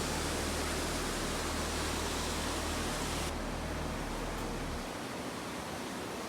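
Steady rush of falling water from a waterfall. About five seconds in the low rumble under it drops away, leaving the hiss.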